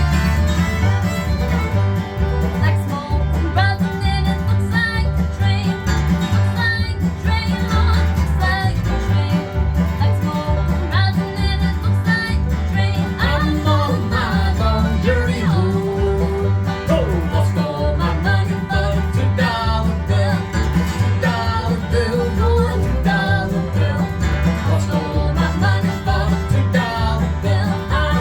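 Bluegrass band playing live: fiddle and banjo melody lines with acoustic guitar over a steady upright bass beat.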